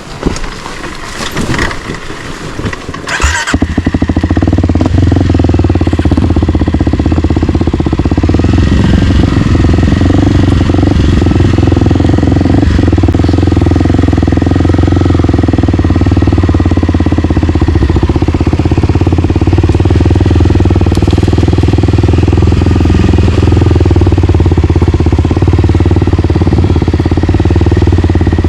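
Single-cylinder dirt bike engine running loud and steady, close by. It follows a few sharp knocks in the first three seconds or so.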